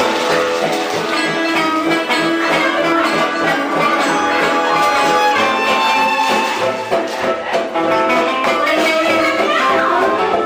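A live band playing dense, lively music with many instruments sounding at once, steady and loud throughout.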